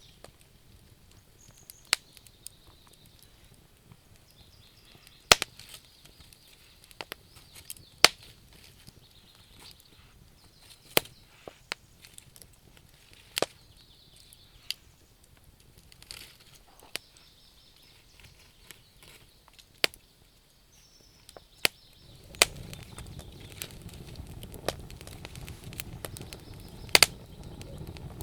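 Wood fire crackling, with sharp irregular pops and snaps from the burning wood. A steadier low rushing noise joins about three-quarters of the way through.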